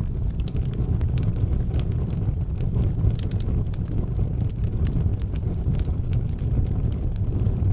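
Wood fire burning in an outdoor fireplace: a steady low rumble of flames with scattered sharp crackles and pops from the burning wood.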